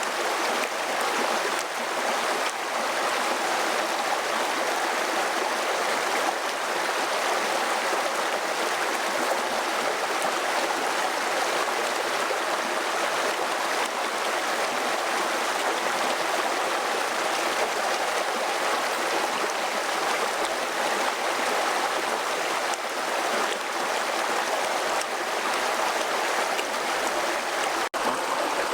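Steady rushing of a flowing mountain stream, broken by a momentary dropout near the end.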